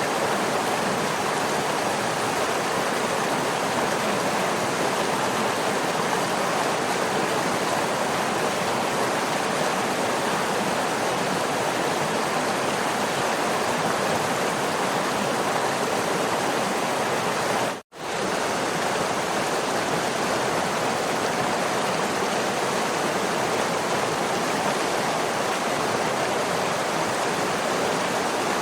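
Waterfall: steady, even rushing of falling water, cutting out for an instant about two-thirds of the way through and coming straight back.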